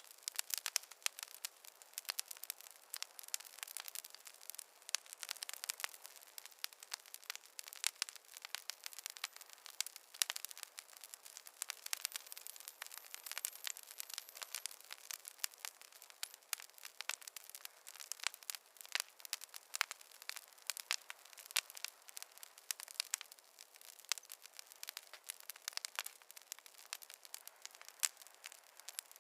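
Fire crackling: a dense, irregular run of small sharp pops and snaps over a faint hiss, with no low rumble.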